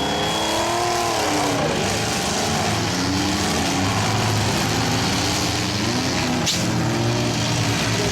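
Engines of several demolition-derby mini trucks, mini vans and SUVs revving up and down as they accelerate around the arena. A sharp bang comes about six and a half seconds in.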